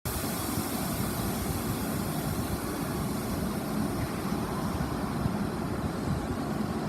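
Tokyo Metro 7000 series electric train running, a steady rumble.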